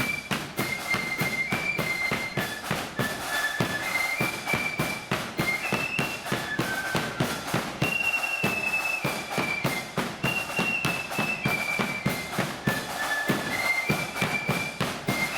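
Marching flute band playing a tune. A high melody of flutes in unison steps between notes over rapid, crackling snare drum beats and a bass drum.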